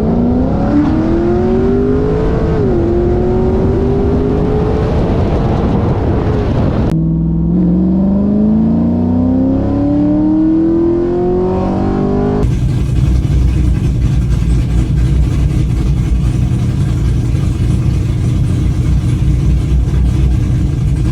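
Car engine accelerating hard under load, its pitch rising steadily, with a brief drop about two and a half seconds in like a gear change, then a second rising pull. After about twelve seconds it gives way to a steadier, lower engine drone. The engine is running on new MSD spark plug wires that cured its misfire.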